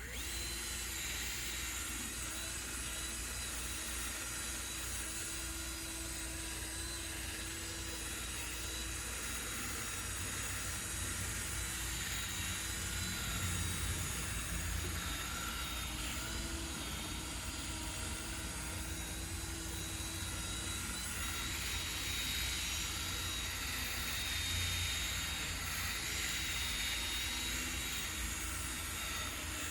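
Electric drill spinning a polishing pad against a plastic headlight lens, a steady motor whine that runs on without a break, buffing in the final compound stage of headlight restoration.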